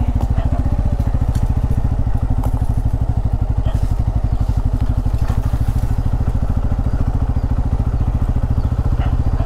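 Bajaj Pulsar N250's single-cylinder engine running steadily at low, even revs while the motorcycle is ridden, with a regular, evenly spaced exhaust pulse.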